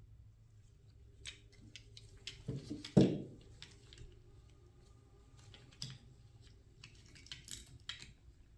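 Tools and small parts clicking and tapping as a lawnmower carburetor is put back together, with one sharp knock about three seconds in, the loudest sound.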